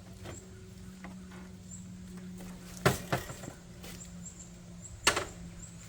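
Two sharp clunks about two seconds apart, with lighter knocks in between, as a Honda Shadow Spirit 750 motorcycle is lowered onto its side. A steady low hum runs underneath.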